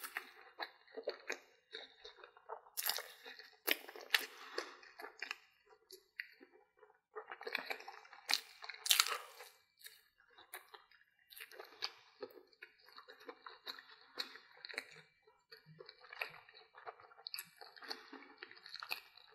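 A person chewing and biting a battered corn dog, with crunches and mouth clicks coming in quick, irregular clusters.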